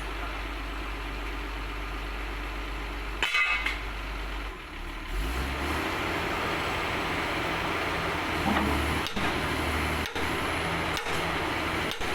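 Diesel engine running steadily, with a short rattle about three seconds in and a change in its low hum about two seconds later.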